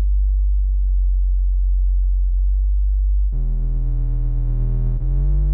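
Bass-heavy electronic music played loud through a truck's car-audio subwoofer system, with a deep steady bass throughout. About three seconds in, a fuller, louder synth chord comes in.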